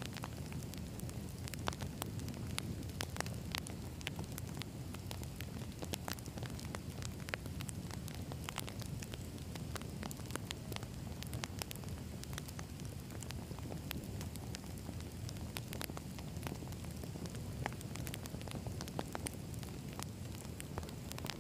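Wood campfire burning: a steady low rumble of flames with frequent irregular crackles and pops from the burning logs.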